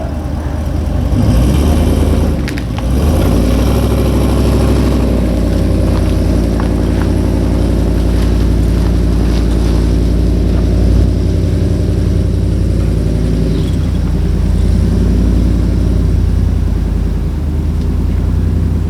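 A vehicle engine running steadily, a deep, even hum with small rises and falls in pitch.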